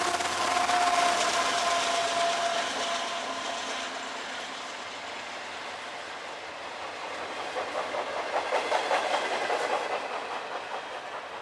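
Freight train passing. A steady tone fades out over the first few seconds, then the wheels of the rail cars clack over rail joints in a quick, even rhythm that is loudest about eight to nine seconds in.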